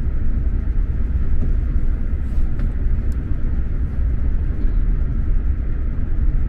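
SJ X2000 electric tilting train running, heard from the passenger cabin: a steady low rumble from the wheels and track, with a faint tick about three seconds in.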